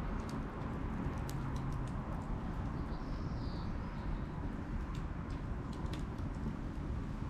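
Bonfire crackling: scattered sharp pops and snaps over a steady low rumble. A faint bird call comes about three seconds in.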